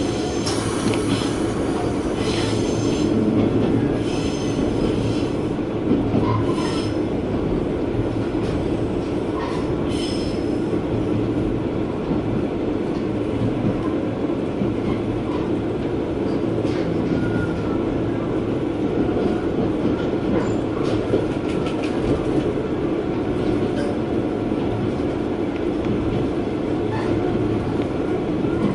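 Diesel railcar, a JR West KiHa 120, running along the line, heard from inside the car: a steady rumble of engine and wheels on rail, with scattered clicks and a few short high squeals in the first ten seconds.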